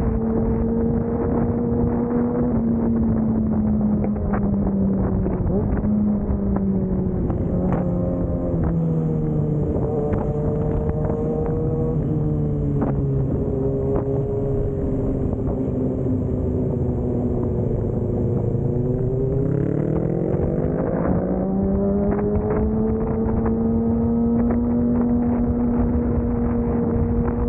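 A vehicle engine running continuously, its revs sinking slowly through the middle and then climbing back up about twenty seconds in before holding steady.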